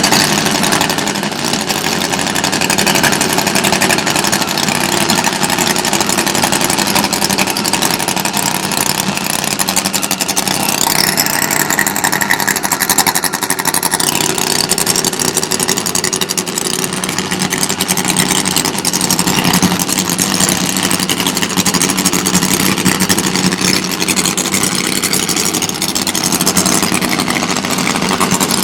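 Drag-racing motorcycle engine running steadily at idle.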